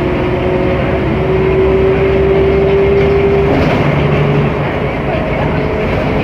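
Mercedes-Benz O500MA articulated bus under way, heard on board: the diesel engine and drivetrain run with a whine that climbs slowly in pitch, then drops off about three and a half seconds in.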